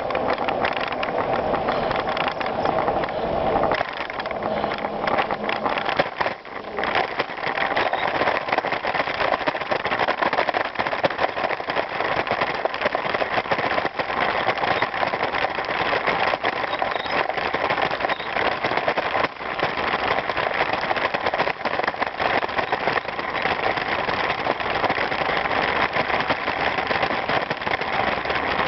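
Bicycle being ridden over a gravel trail: a steady crunch of tyres on loose stones with constant rattling, dipping briefly about six seconds in.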